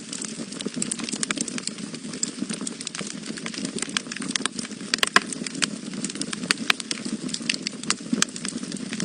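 Wood fire burning in a fireplace, crackling and popping irregularly over a steady low rumble of flame. The sharpest pops come a little after halfway.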